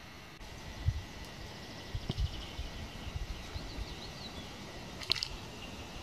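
Small forest birds calling: a quick high trill about two seconds in and a few short high chirps, with a sharp click about five seconds in. Irregular low rumbles of wind on the microphone run underneath.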